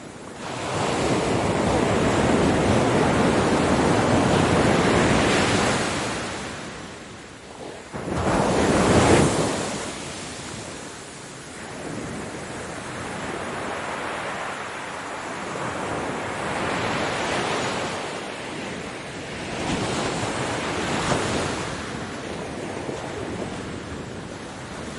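Ocean waves breaking on a beach and washing back. A long surge builds and fades over the first six seconds, the loudest wave breaks about nine seconds in, and smaller swells follow.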